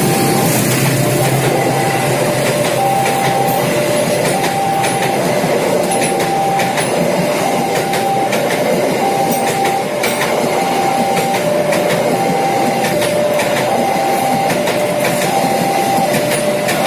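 A train running past a level crossing, its wheels clicking over the rail joints, while the crossing's warning alarm sounds two tones alternating high and low at an even pace.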